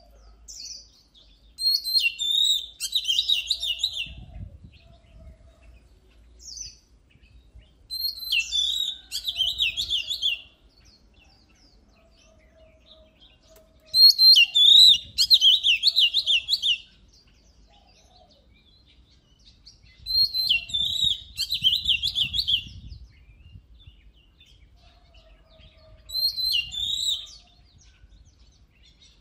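Oriental magpie-robin singing in five loud bouts of rapid whistled and warbled notes, each lasting two to three seconds, with single short notes in the quieter gaps between.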